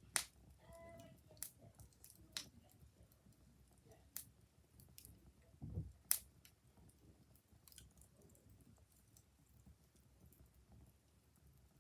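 Wood fire crackling: faint, irregular sharp pops over a low rumble, with a brief whistling tone about a second in and a dull thump about six seconds in.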